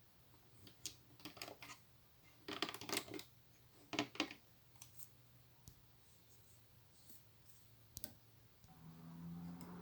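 Small plastic Lego pieces clicking and clattering in quick clusters as they are picked up and pressed together. Near the end a steady hum starts and grows louder.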